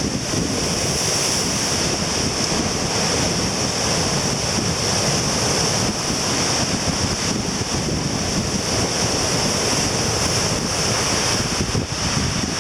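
Surf breaking and washing onto the beach at high tide, with strong wind buffeting the microphone; a steady, unbroken rush of noise.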